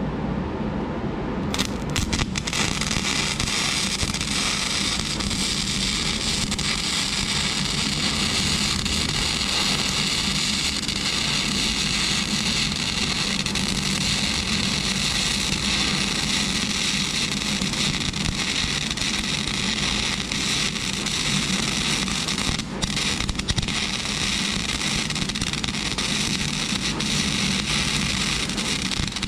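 Flux-core arc welding on steel: the arc catches about a second and a half in and then crackles steadily, with a brief stop about three quarters of the way through before the weld goes on.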